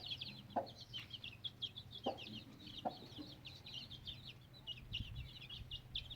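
Chicks peeping busily in quick high chirps, with a hen giving a few short clucks, about half a second in and again two to three seconds in.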